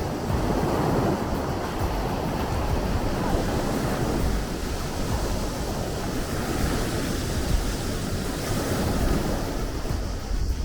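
Sea waves rushing and washing in a steady, continuous wash, with a deep low rumble underneath.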